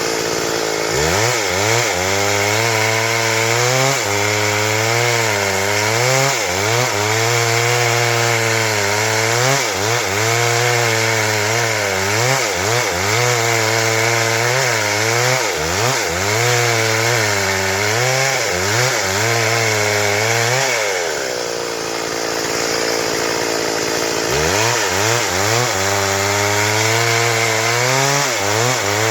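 Stihl MS382 two-stroke chainsaw cutting wood under load, its engine pitch sagging and recovering about every two seconds as the chain bites. About two-thirds of the way through the engine note drops away for a few seconds, then the saw picks up and cuts again.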